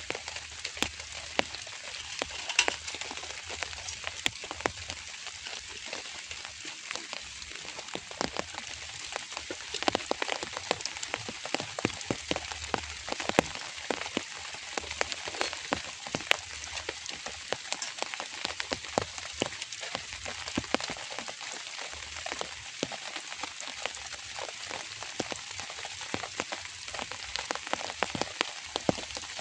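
Drizzle falling and pattering on a surface: a steady hiss of rain with many small, irregular drop ticks.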